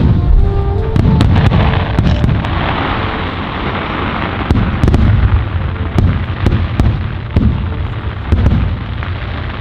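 Aerial fireworks shells bursting one after another, each a deep boom, about one or two a second, with a crackling fizz of sparks a couple of seconds in.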